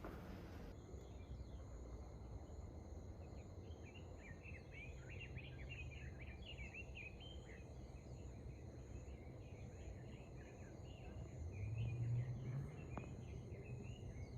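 Faint outdoor nature sounds: insects trill steadily throughout, and from about four seconds in small birds chirp rapidly. A low rumble swells briefly near the end.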